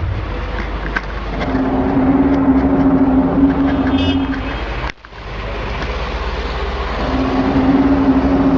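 Unexplained droning sky sound of the kind reported worldwide in 2015: a steady drawn-out tone over a low rumble, held for about three seconds, cut off suddenly about five seconds in, then sounding again near the end.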